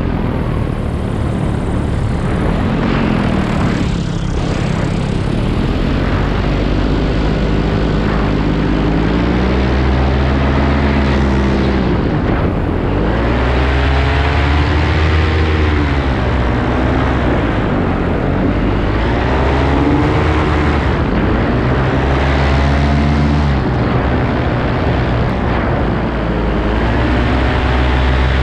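Paramotor engine and propeller running steadily in flight, with air rushing past. Several times higher tones swoop up and then down in pitch over the steady drone.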